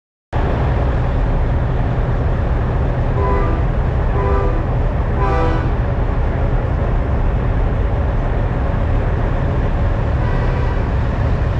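Steady heavy low rumble of idling diesel semi-truck engines, starting abruptly. Three short pitched tones with harmonics, like brief horn toots, sound about three, four and five seconds in.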